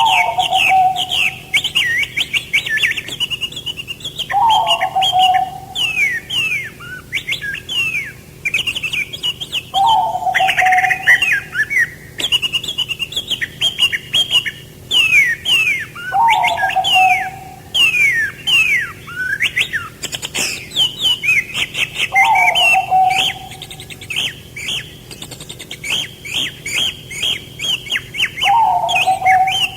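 Several songbirds chirping and twittering in quick, busy runs of high notes, with a lower, shorter call repeating about every six seconds.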